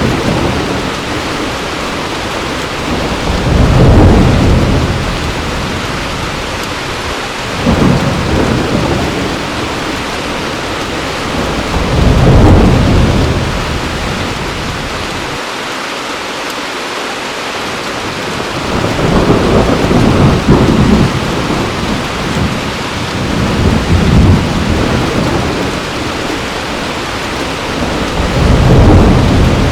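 Heavy rain falling steadily, with rolls of thunder rumbling in every few seconds, about six times, each swelling and fading over a second or two.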